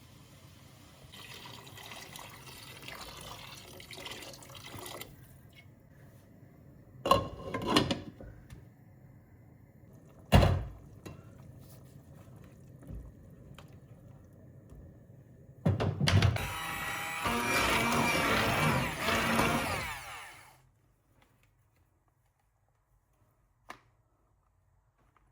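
Household sounds, most likely water running or pouring: a soft stretch near the start and a louder one of about five seconds later on, with a couple of sharp knocks between them.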